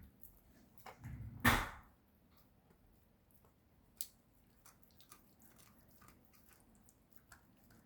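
A dog gnawing on a chew: a few sharp crunches, the loudest about one and a half seconds in, and a click about four seconds in, then faint scattered clicks of chewing.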